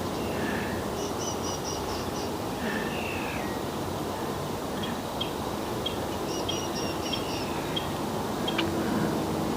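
Outdoor ambience: a steady background rush with a small bird chirping, giving a quick run of about six high notes twice, with scattered single chirps in between.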